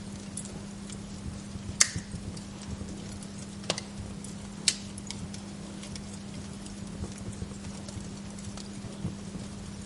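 Wood fire in a fireplace crackling: scattered small clicks and snaps, with a few sharp louder pops, the loudest about two seconds in and again about four and a half seconds in, over a steady low hum.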